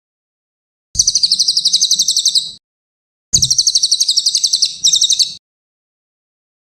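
Cililin singing: two high, shrill bursts of fast repeated chirps, each lasting about two seconds, with silence between them.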